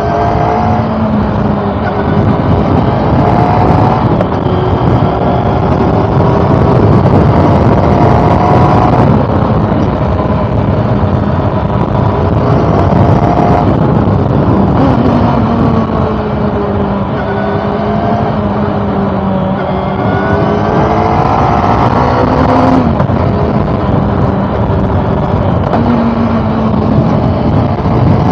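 Honda CB400 Super Four's inline-four engine under way, its pitch climbing under acceleration and dropping back several times as it changes gear.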